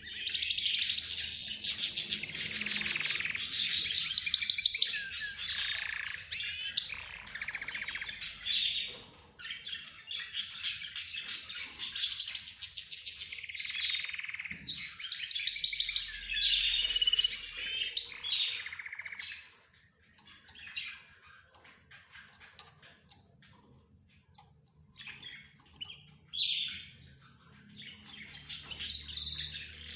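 A mix of caged pet birds (budgerigars, lovebirds, zebra finches and a canary) chattering, chirping and warbling over one another. The calls are dense and loud for most of the first two-thirds, thin out to scattered quieter chirps, then pick up again near the end.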